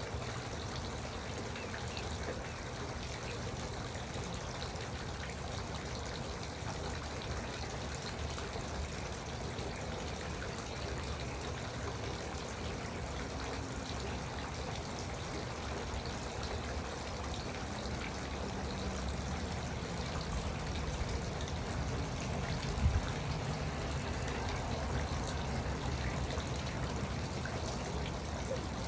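Garden water fountain trickling and splashing steadily, with one brief louder splash about 23 seconds in.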